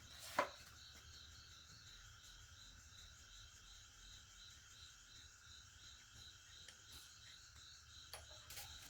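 Faint insect chirping: a high note pulsing evenly a few times a second. A single sharp knock sounds about half a second in.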